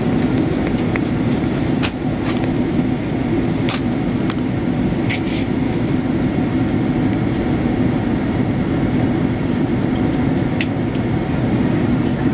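Steady cabin noise inside a Boeing 777-300ER airliner, a dense low rumble with a few light clicks or rattles scattered through it.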